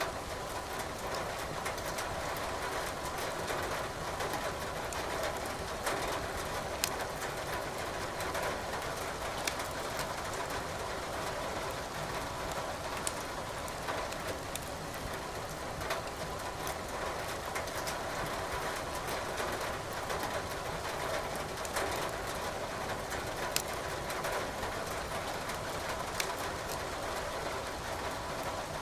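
Steady rain pattering, with burning logs in a fireplace crackling and popping now and then.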